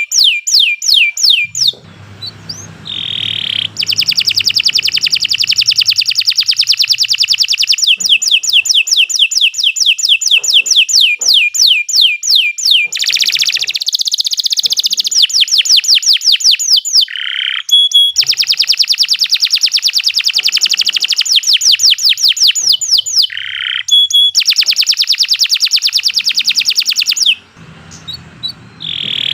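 Domestic canary singing long, rapid rolling trills of repeated high notes, with short breaks about two seconds in and again near the end.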